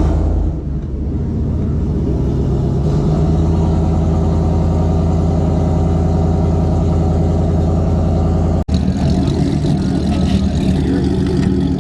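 A car engine running close by at a steady speed, loud and even, with a brief cut-out about nine seconds in.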